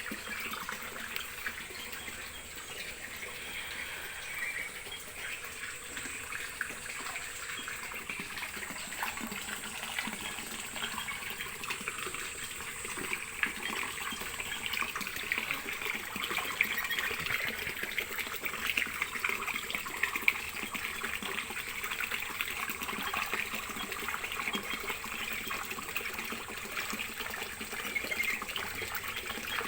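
Water running and splashing steadily and continuously, with a dense patter of small splashes.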